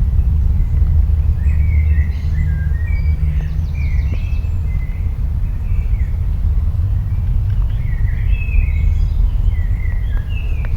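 A deep, steady rumble with songbirds chirping over it in two short bouts, one near the start and one near the end.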